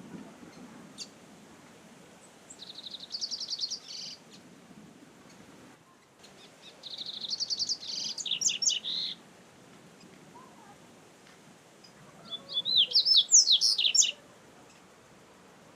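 Double-collared seedeater (coleiro) singing three song phrases a few seconds apart, each a fast high trill running into a few sharper whistled notes, the last phrase loudest, over faint low background noise.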